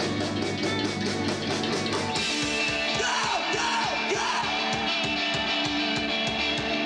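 Live emo rock band playing: electric guitars over drums keeping a steady fast beat, with the low end shifting about two seconds in and a sliding guitar or vocal line soon after.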